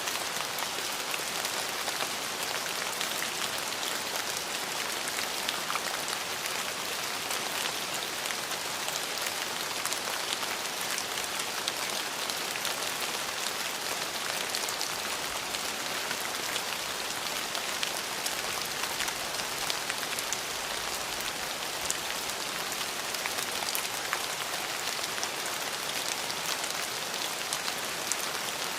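Steady rain falling on a surface, an even hiss with many small drop impacts and no thunder.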